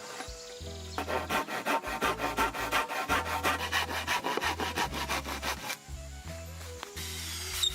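Hand saw cutting through wood in quick, even back-and-forth strokes for about five seconds, starting about a second in.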